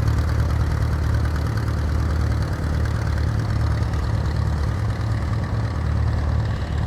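Allis-Chalmers farm tractor engine running steadily, low-pitched and even.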